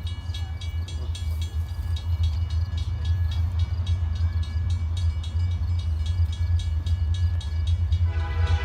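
Train approaching with a deep, steady rumble and a quick, even dinging of about three strikes a second. The train's horn starts to sound near the end.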